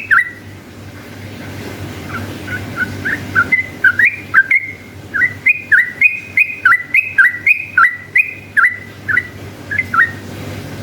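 Yellow-vented bulbul singing a long run of loud, bubbly notes that alternately rise and fall, about three a second, after a short lull near the start. A faint steady hum lies underneath.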